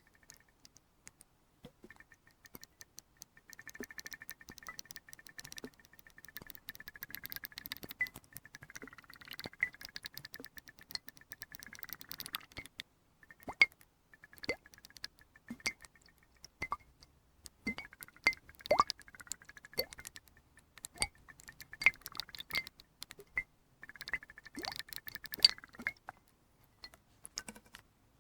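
Water swirled and sloshed inside a glass flask, with small clinks and taps of glass. It comes in two bouts with a short pause about halfway.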